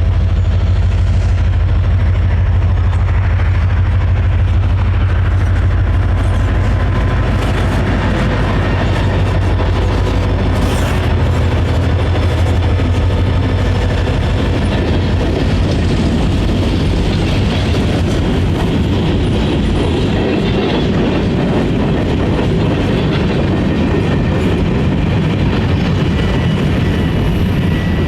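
Louisville & Indiana freight train passing: the low rumble of its six-axle diesel locomotives, which fades after about halfway, giving way to freight cars rolling by with wheels clattering over the rail joints.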